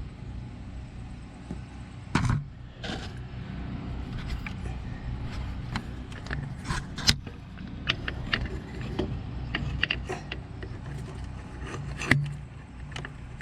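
Metal clicks and knocks of a distributor being worked down into its bore and turned to mesh its gear, the loudest clunks about two seconds in and near the end, over a steady low hum.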